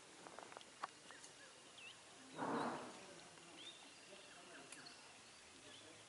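Faint outdoor ambience with a few short, high bird chirps, and a single short noisy burst about two and a half seconds in, the loudest sound.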